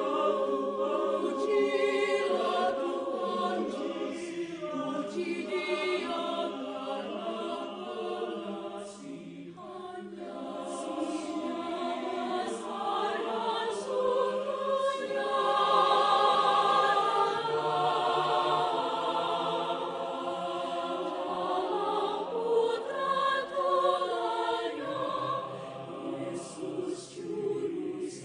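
Choir singing in several voice parts in harmony, growing loudest a little past the middle.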